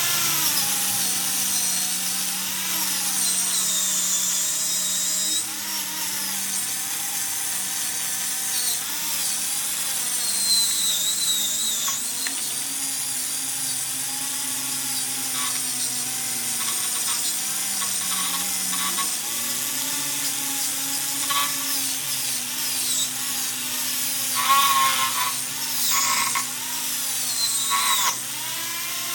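A wire wheel spinning on a power tool, scrubbing rust and junk off an exhaust pipe flange so it will seat flat. The motor runs steadily, its note wavering as the wheel is pressed on, with harsher scraping spells near the end.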